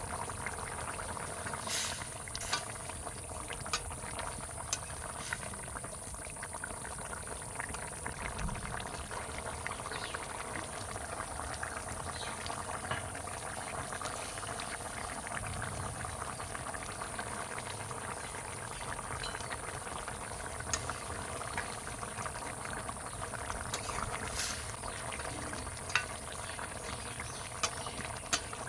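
Chicken and potato curry gravy boiling in the pot, a steady bubbling with occasional small pops and clicks.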